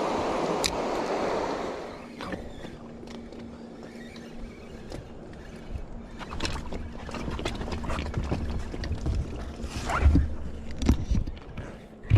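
Water moving around a small fishing boat. A rush of water noise fades about two seconds in, and scattered knocks and clunks against the hull follow, the loudest near the end, over a faint steady hum.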